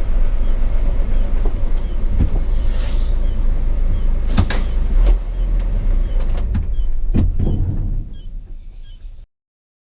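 Cabin noise of a Hino 500 FM 260 JD truck's six-cylinder diesel running on the road, a steady low rumble with a few sharp knocks and rattles and a faint regular ticking. It drops away about eight seconds in and cuts off to silence a second later.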